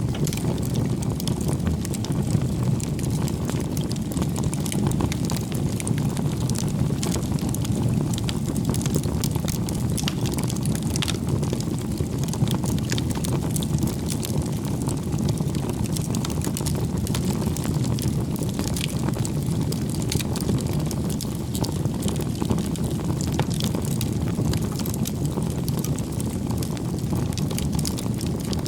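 Bonfire burning: a steady low rumble of flames with frequent small crackles and pops.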